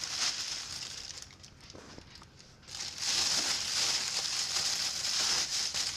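Plastic bag crinkling as it is handled to cover the dough basket; it goes quieter for a moment in the middle, then crinkles louder again for the last few seconds.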